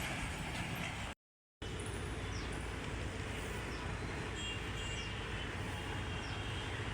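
Steady low rumble of trackside background noise with short, high, falling bird chirps repeating every half second to a second. The sound cuts out completely for about half a second, a little over a second in.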